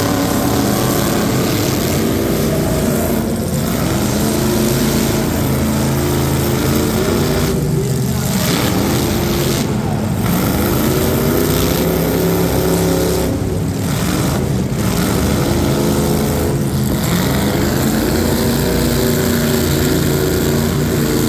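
Racing truck engines running hard and loud, the engine note climbing and dropping in pitch several times.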